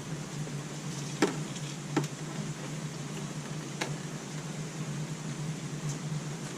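A few sharp metallic clicks and taps of hand tools and parts being handled under the scooter, three in all, about a second in, two seconds in and near four seconds, over a steady low hum.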